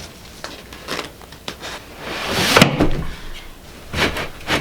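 Mattress with grip tape on its underside being dragged across a metal slatted bed frame: a few light knocks, then a rasping scrape that builds for about a second and stops abruptly, and more scraping near the end. The frame itself does not squeak.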